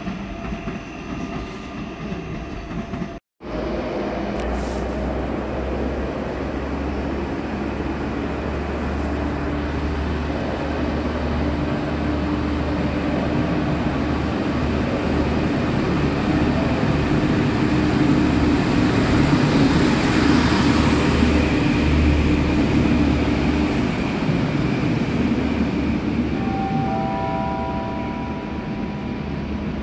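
Trains in a station: after a brief dropout a few seconds in, the steady deep rumble of a train grows louder to a peak about two-thirds through, then eases off. A few short high tones sound near the end.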